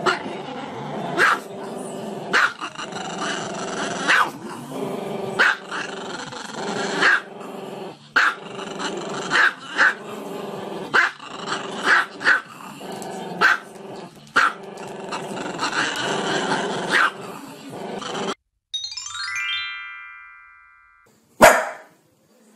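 A small long-haired black-and-tan dog howling with music playing, sharp accents about every second. It cuts off about 18 seconds in, a short chiming transition effect fades away, and near the end a Jack Russell terrier gives one sharp bark.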